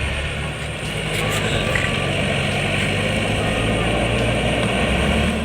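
Steady engine drone: low hum tones under a noisy hiss, getting a little louder about a second in.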